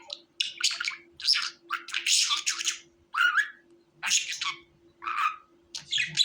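Budgerigar chirping and chattering in short, separate calls, several a second in bursts, some with quick rising slides in pitch, over a faint steady hum.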